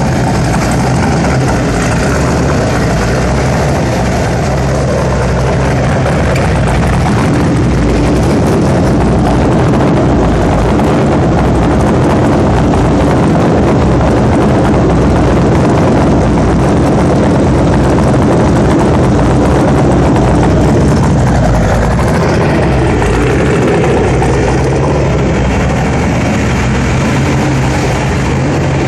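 Twin-turbo C5 Corvette's 364 ci V8 on E85 running loudly and steadily, its pitch holding level with no big revs.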